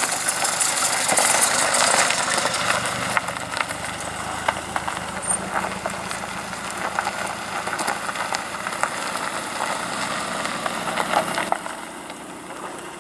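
A classic car's engine running as the car moves slowly past, the sound dropping away near the end.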